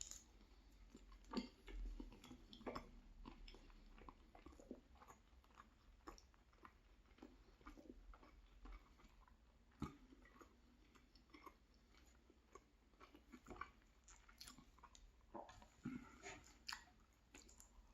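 A person chewing food with the mouth close to the microphone: faint, irregular wet smacks and small mouth clicks, a few a second, with slightly louder ones near the start, around ten seconds in, and near the end.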